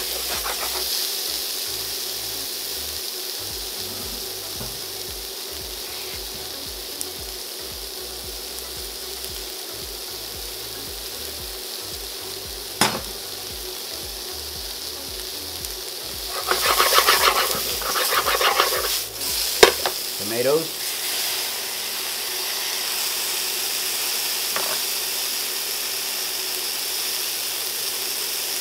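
Sliced red onions and button mushrooms sizzling in oil in a hot stainless steel frying pan. A single sharp tap comes about halfway through, and louder stirring and scraping of the pan comes about two-thirds of the way in.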